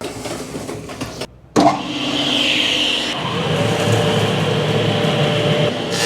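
A motor starts abruptly about a second and a half in, after a brief silent break, and then runs steadily; before the break there is a different, rougher noise.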